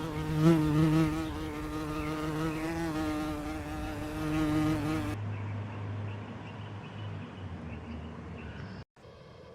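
A steady, slightly wavering insect-like buzz, like a fly's, for about five seconds, then it cuts off suddenly and a weaker low hum follows.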